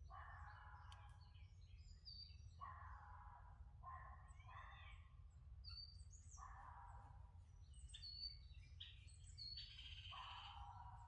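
Faint birdsong in a cypress forest: several birds calling, with short harsher calls repeating every couple of seconds and high thin chirps over them, above a steady low rumble.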